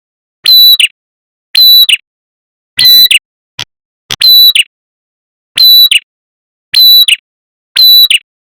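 Prenjak kepala merah bird call from a lure recording: a sharp, loud chirping call of about half a second, repeated roughly once a second, seven times, with a short click between the third and fourth calls.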